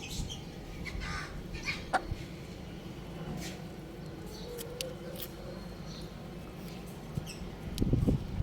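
Young rooster chirping: a few faint short calls, among scattered sharp clicks, with a low thump just before the end.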